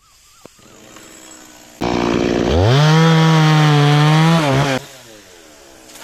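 Stihl two-stroke chainsaw idling, then revved hard about two seconds in. It holds full throttle for about two seconds and drops back to idle near the end.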